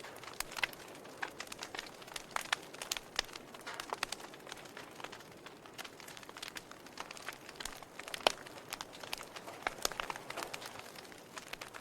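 Wood fire in a fireplace crackling: irregular snaps and pops over a soft hiss, with one sharper pop about eight seconds in.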